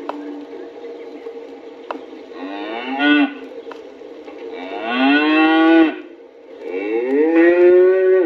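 Cattle lowing: three long moos, each rising in pitch and then held, the last two louder and longer.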